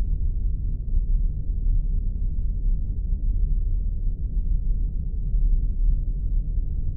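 Spaceship engine ambience sound effect: a steady, deep rumble with nothing high in it, keeping an even level throughout.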